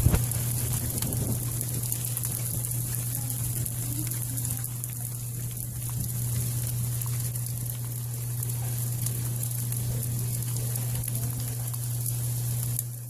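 Hail falling as a dense, steady crackling patter on surfaces, over a steady low hum. There is a thump right at the start.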